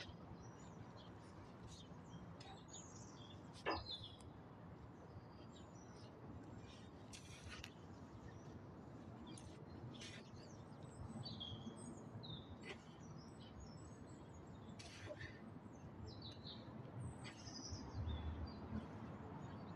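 Birds chirping: many short high calls scattered over a steady outdoor background hiss, with one sharp click about four seconds in.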